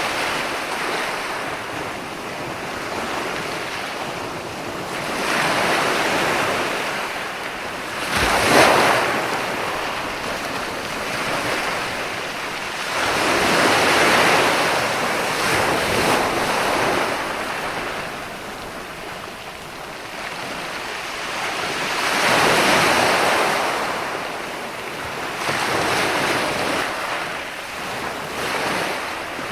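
Ocean surf: waves breaking and washing in, the hiss swelling and fading every few seconds, with one sharper, louder crash about eight seconds in.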